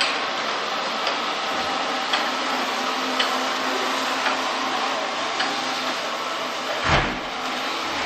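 Xiaomi Mi Robot Vacuum Cleaner running with a steady whir, a light click about once a second, and a thump about seven seconds in.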